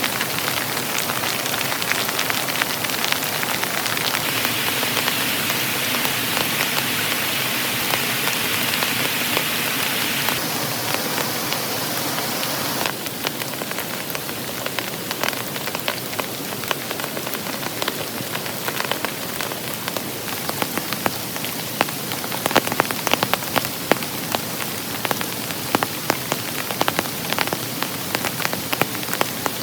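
Heavy rain falling steadily, a dense hiss of drops. About halfway through the sound changes abruptly, and from then on individual drop hits stand out as sharp ticks, more of them toward the end.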